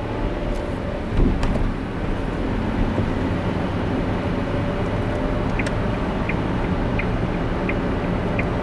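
Car driving, with steady low road and engine rumble and a brief louder bump about a second in. From a little past halfway a light, regular ticking comes in, about three ticks every two seconds.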